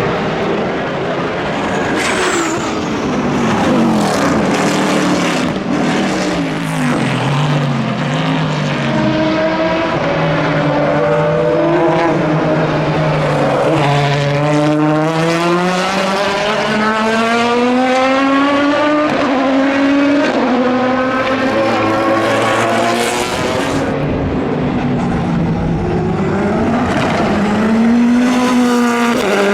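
Endurance racing cars (LMP prototypes and GT cars) running hard on the circuit, several engines heard at once. Engine pitch drops early on, then climbs steadily for about ten seconds as a car accelerates.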